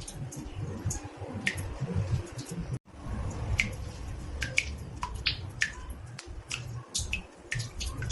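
Water drops falling into a bathtub, irregular sharp plinks about one or two a second, over a low steady rumble. The sound cuts out for an instant about three seconds in.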